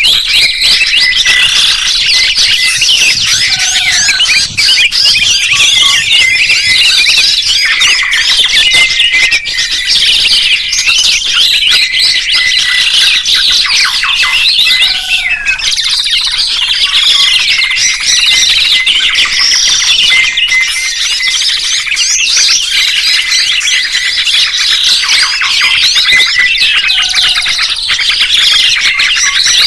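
Many small songbirds chirping and twittering over one another in a dense, unbroken chorus.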